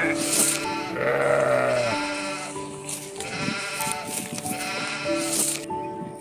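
Bleating animal, several wavering calls with the longest about a second in, over background music with held notes.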